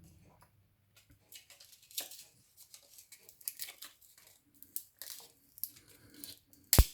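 Small plastic clicks and rustles of hands working a key fob and its coin battery, with one sharp, loud snap near the end.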